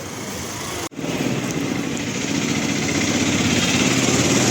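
A small engine running steadily, with a brief dropout about a second in, then growing gradually louder.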